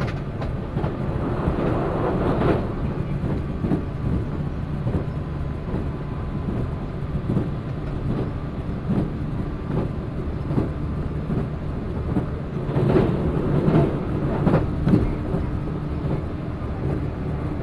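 Train running along the line, heard from inside the passenger car: a steady low rumble with irregular knocks of the wheels over the track. It grows louder twice, near the start and again about two-thirds of the way through.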